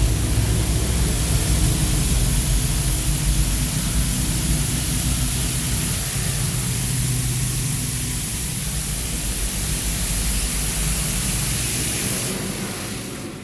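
Touchless car wash water jets spraying hard against a van, heard from inside the cabin as a loud, steady hiss over a low hum; the hiss drops away about twelve seconds in.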